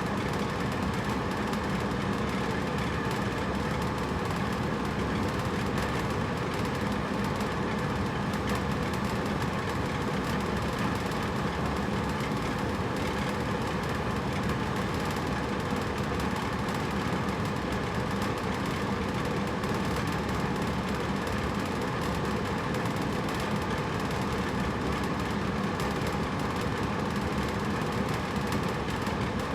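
Hotel room air conditioner running steadily: an even rush of blown air over a low, constant hum.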